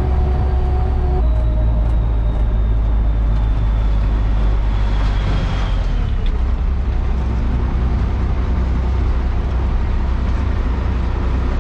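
Work truck driving on the road: a steady, heavy low engine and road rumble, with a faint high whine that slowly falls in pitch over the first half.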